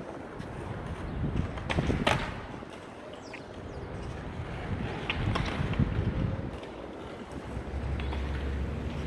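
Wind buffeting the microphone over city street noise, with a few sharp clicks near two seconds in and again after five seconds.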